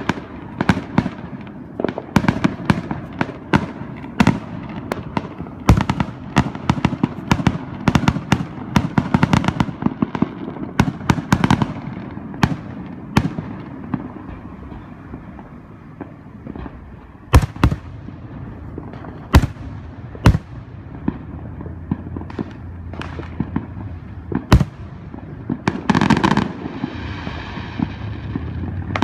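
Fireworks going off: a rapid, dense run of sharp bangs and cracks for the first dozen seconds, then scattered single bangs a second or more apart, and a longer burst near the end.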